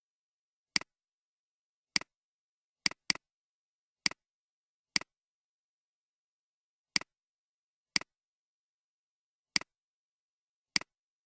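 Computer mouse clicking at uneven intervals, about ten sharp clicks, including a quick double click about three seconds in.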